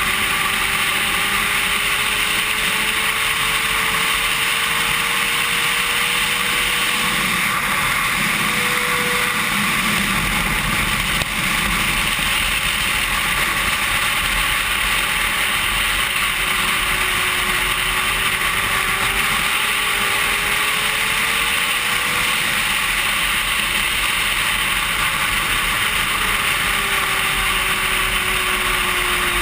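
1000cc superbike running at racing speed, its engine note under heavy, steady wind roar. The engine pitch glides slowly up and down as the revs change.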